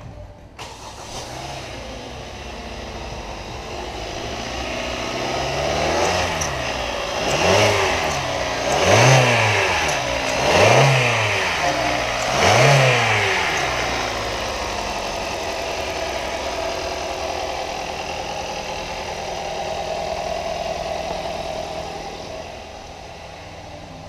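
2016 Hyundai Sonata 2.4-litre four-cylinder engine idling, then revved about four times in quick succession, each rev rising and falling in pitch, and settling back to a steady idle.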